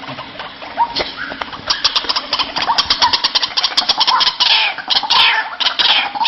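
White-breasted waterhen calling: a few scattered notes, then from about two seconds in a fast run of sharp repeated notes, turning near the end into falling calls.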